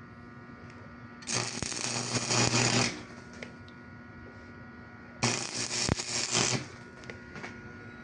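A small power tool runs in two bursts of about a second and a half each, with a faint steady hum throughout.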